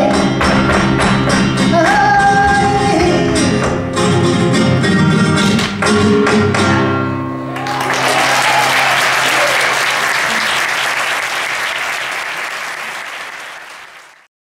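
Flamenco music ending: a singer's held notes over guitar, with sharp rhythmic strikes keeping time. About halfway through the music stops and an audience applauds, the applause fading away near the end.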